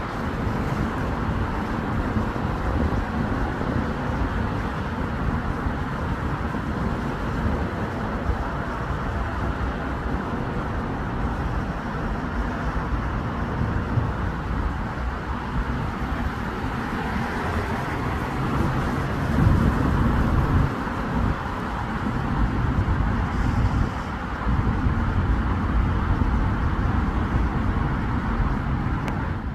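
Road traffic passing steadily, with the rumble of engines and tyres, and one vehicle passing louder about two-thirds of the way through.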